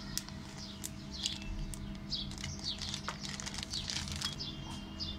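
Faint, irregular high chirps of small birds, repeated many times, with a few light clicks from a zip-lock plastic bag being pressed shut and handled.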